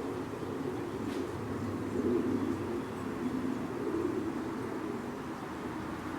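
Dove cooing, low and soft, in swells about two seconds in and again about four seconds in, over a steady low background rumble.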